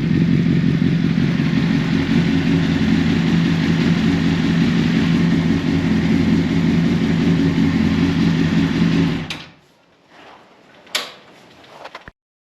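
Honda CBR 1000RR inline-four idling steadily through an Akrapovic carbon slip-on exhaust after a cold start. About nine seconds in the engine sound cuts off suddenly, followed by a faint sharp click about two seconds later.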